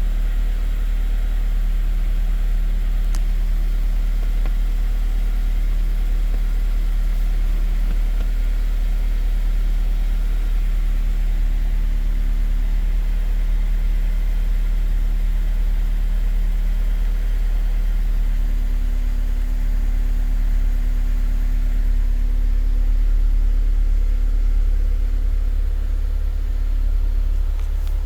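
Honda S2000's four-cylinder engine idling during warm-up after a cold start, a steady low note whose tone shifts and deepens about two-thirds of the way through.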